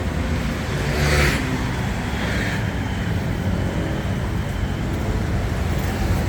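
Street traffic: vehicle engines running and passing, with a brief louder rush about a second in.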